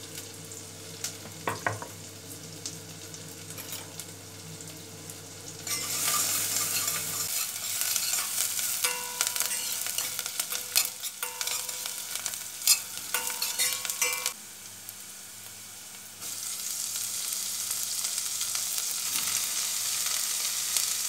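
Chopped onion and garlic sizzling in hot oil in a stainless steel pot and being stirred, the spoon clicking against the pot, starting about six seconds in. The frying drops off briefly, then a steady loud sizzle picks up again near the end as chopped fiddlehead ferns fry.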